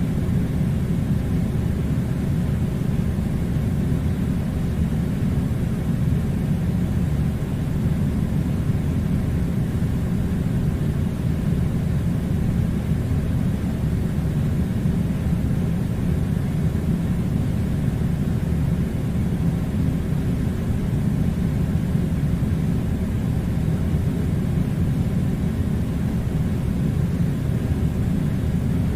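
Steady, unchanging low rumbling noise, like machinery or air-handling noise, with no pitch changes or separate events.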